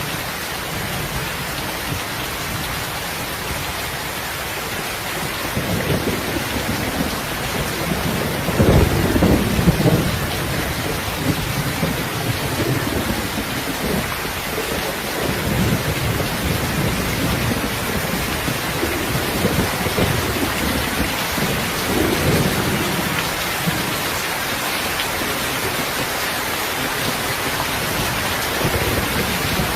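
Steady rain with rumbling thunder; the strongest roll of thunder comes about nine seconds in, with softer low rumbles rolling on after it.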